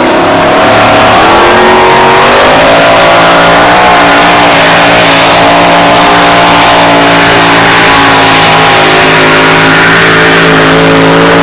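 Modified two-wheel-drive pulling truck's engine held at high revs under load as it pulls the sled down the track. The pitch climbs in the first second, stays high and slightly wavering, then drops as the revs come off at the very end.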